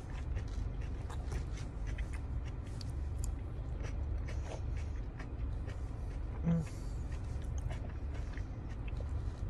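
Close-miked chewing of a mouthful of salad greens: wet, irregular mouth clicks and crunches over a steady low rumble, with a brief voiced sound about six and a half seconds in.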